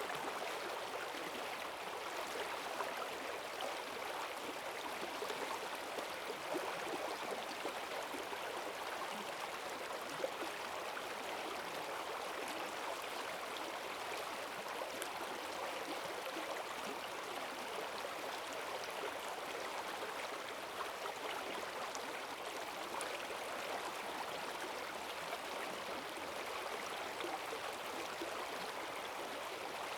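Forest stream swollen by heavy rain, rushing water running over its bed in a steady, even flow with small splashes.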